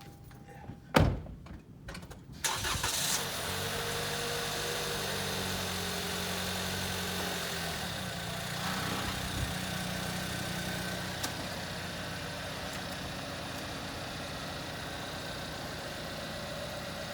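Toyota Camry engine starting: a sharp click about a second in, then the engine cranks and catches about two seconds in and settles into a steady idle.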